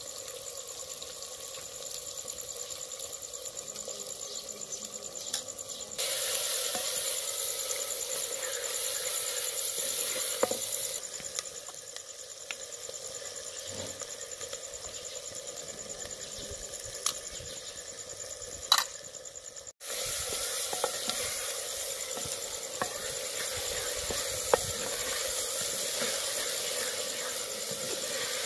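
Mutton and tomato masala sizzling in a clay handi over a wood fire while a wooden spoon stirs it, with a few light clicks. The sizzle is a steady hiss that grows louder in two stretches.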